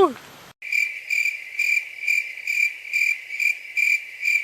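An insect calling in regular pulses, about two a second, on one high, piercing tone that cuts off abruptly at the end. A short falling tone is heard at the very start.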